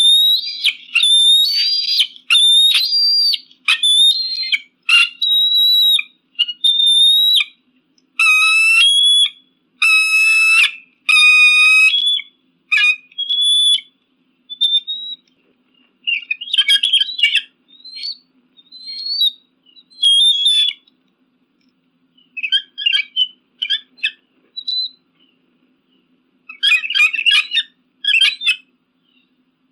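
Eagle calling: a quick series of high, whistled screams for the first dozen seconds, then sparser short calls broken by bursts of rapid chattering, the last one near the end.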